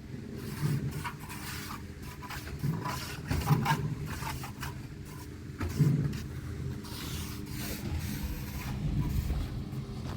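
A motor running steadily, with scattered knocks and short scraping sounds over it.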